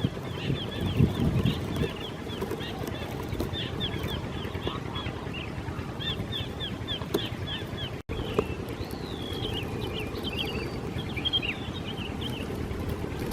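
Birds calling in quick, repeated high chirps over a steady low rumble. There is a brief break about eight seconds in, after which the calls become varied, rising and falling whistles.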